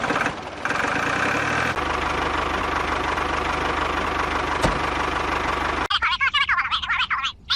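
An engine running steadily with an even, regular beat, cut off sharply about six seconds in, after which a different, warbling higher sound takes over.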